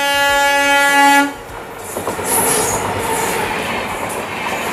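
Train horn sounding a loud, steady chord for about a second, cutting off. The rumble and clatter of a passing train running on the rails follows.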